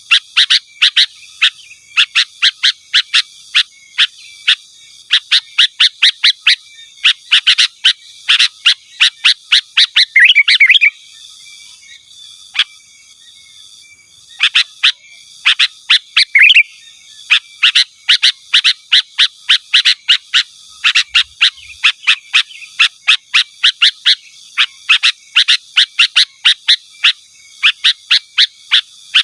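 Sooty-headed bulbul calling loudly: a long run of sharp, quick chirps, several a second, broken by a short warbling phrase about ten seconds in, a pause of a few seconds, and another warble near sixteen seconds.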